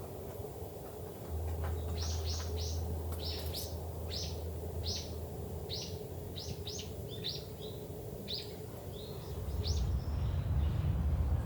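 A songbird calling a quick series of about fifteen short, high chirps, each sliding down in pitch, from about two seconds in until shortly before the end. Under it runs a low rumble that grows louder near the end.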